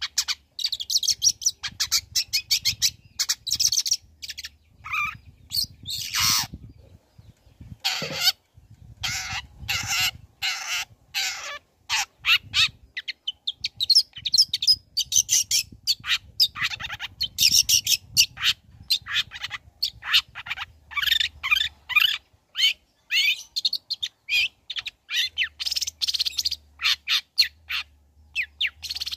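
Long-tailed shrike (cendet) singing a fast, varied song of rapid chirps and chattering notes, with a couple of harsher, scratchy bursts about six and eight seconds in.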